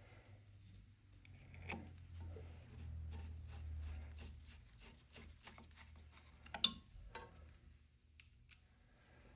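Small clicks, taps and rubbing from parts being handled by hand, with one sharper click about two-thirds of the way through.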